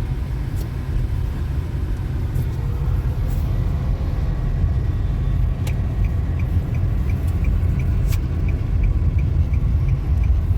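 Steady low rumble of a car driving, heard inside the cabin. In the second half a faint, regular ticking comes in, about three ticks a second, with a couple of sharp clicks.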